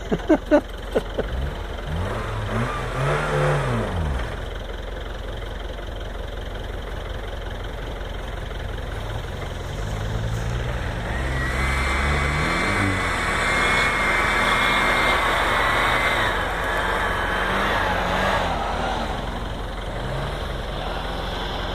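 Volkswagen Iltis off-roader's engine revving up and dropping back several times as it drives through a sand pit. A few sharp knocks in the first second, and a thin high whine holds for several seconds midway.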